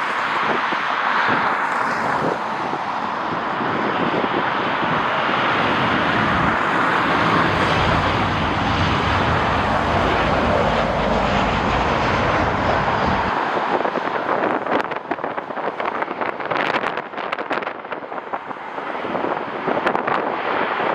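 Jet airliner engine noise, steady and loud, with a deep rumble for several seconds that stops abruptly a little past halfway. After that strong wind buffets the microphone with uneven crackling gusts.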